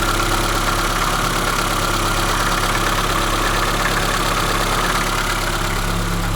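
ZAZ Sens 1.3-litre engine idling steadily with a chaotic knocking from the timing-belt end, which the owner takes for most likely a failing water pump rather than the belt tensioner roller.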